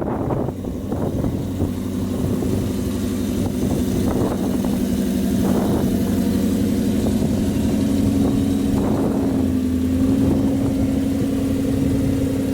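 A vehicle engine idling steadily, its note rising a little about nine seconds in and then holding at the higher speed.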